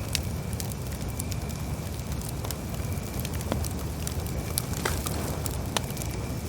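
Campfire burning, with frequent irregular crackles and sharp pops over a steady low rumble of the flames.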